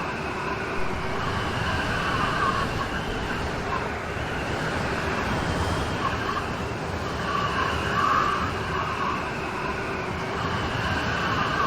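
Steady rain hiss, with a wavering high tone that swells and fades every few seconds above it.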